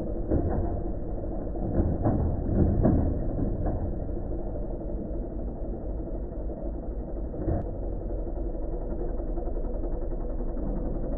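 Farm tractor engine running steadily, with a few short clunks about two to three seconds in and again near eight seconds.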